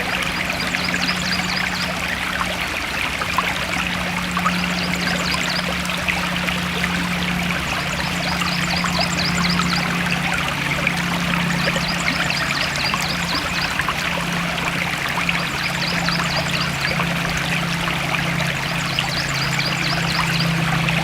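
Stream water flowing and trickling steadily. Short runs of rapid high chirps recur every couple of seconds over it, with a low steady hum underneath.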